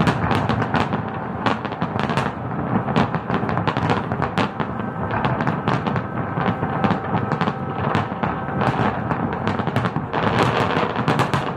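Fireworks going off in a dense barrage: rapid, overlapping cracks and bangs with no pause.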